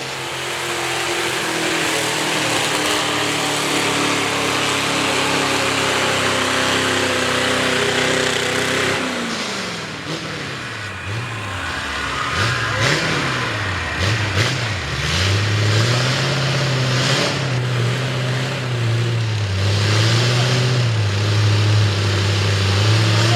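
V8 Ford mud truck engine with open upright headers, revving hard. Its pitch holds for several seconds, then falls and climbs again several times, as the throttle is worked and gears are shifted. It then stays high and steady to the end with small dips.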